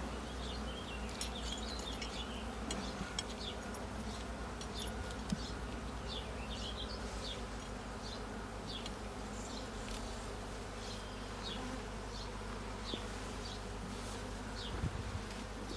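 Honeybees buzzing around an open hive, a steady hum with many individual bees flying close past. A few faint knocks from the hive equipment.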